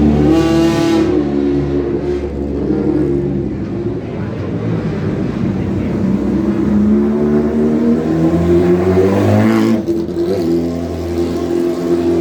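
Sports car engines idling and revving. The pitch rises briefly near the start and again near the end, where it drops off abruptly.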